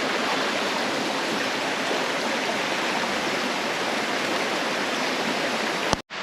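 Steady rushing of water from a jungle stream at a waterfall, cutting off abruptly near the end.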